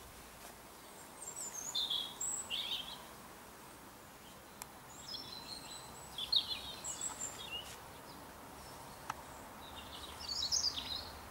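Small songbird singing in three short bouts of quick, high chirping phrases: about a second in, around the middle, and near the end. A faint steady hiss sits underneath.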